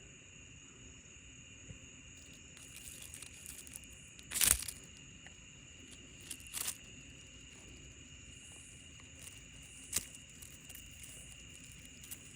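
Steady high-pitched insect chorus, with a few short crackling, crunching rustles over it, the loudest about four and a half seconds in.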